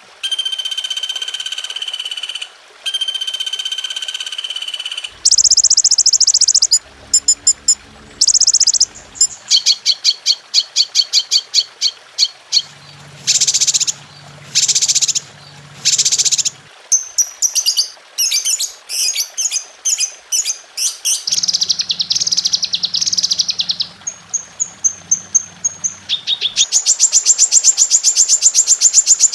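Recorded songbird calls of many kinds spliced one after another as a masteran tutor track for caged songbirds. Whistled notes, rapid trills and chirp series, each cut off abruptly and replaced by another call every second or few seconds.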